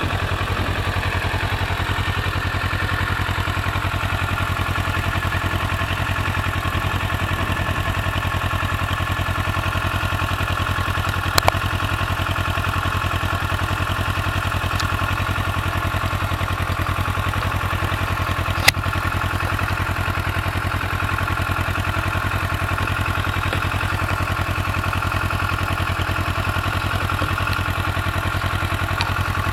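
Kawasaki Versys 650's parallel-twin engine idling steadily through its original stock exhaust. Two brief sharp clicks are heard, one about eleven seconds in and another near nineteen seconds.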